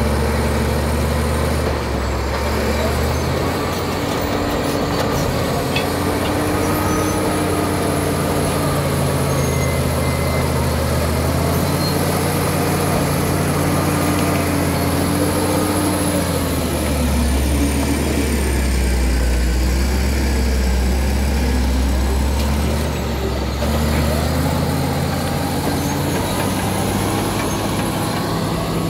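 Caterpillar D7 bulldozer's diesel engine running hard, its note dropping lower for several seconds in the middle and then rising again, with a thin high whine that rises and falls.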